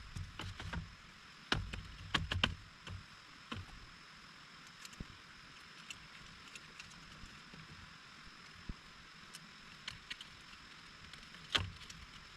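Steady rain hiss with scattered knocks and clicks, a cluster of them about one and a half to two and a half seconds in and a single sharp knock near the end.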